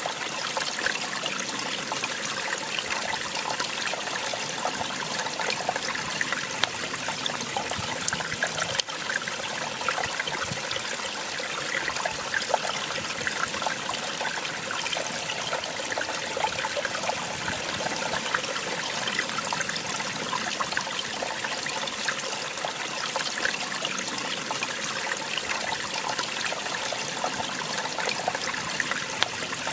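Small waterfall splashing and trickling, a steady rush of falling water.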